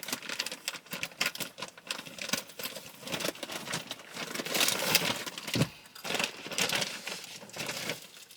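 Irregular rustling and quick clicks of hands fitting fabric seat covers, with their straps and clips, over a car's rear seat.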